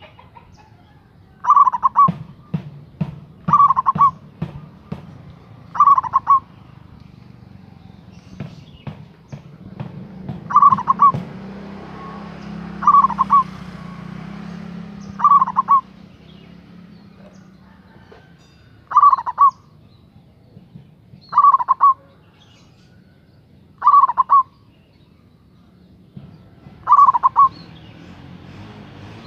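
Zebra dove (perkutut) cooing: a short rippling phrase of notes repeated about every two to three seconds, some ten times in all.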